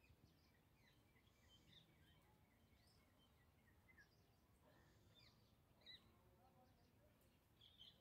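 Faint, scattered chirps of small birds over quiet outdoor background noise, with a louder trilled bird call starting near the end.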